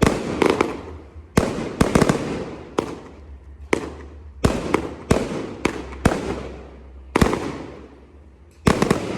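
Aerial fireworks bursting overhead: a run of sharp bangs, about a dozen in nine seconds, some in quick pairs, each followed by a fading crackle and echo.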